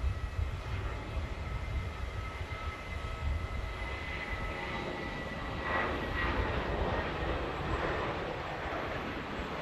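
Jet airliner's engines: a steady high whine over a low rumble, joined about halfway through by a louder rushing noise.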